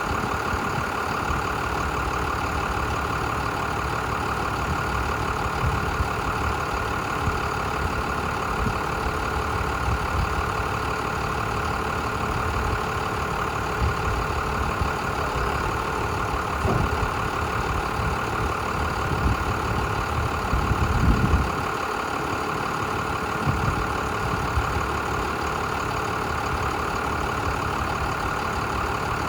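Cummins ISB inline-six diesel of a 1999 Capacity TJ5000 yard spotter idling steadily, with a brief louder patch about two-thirds of the way through.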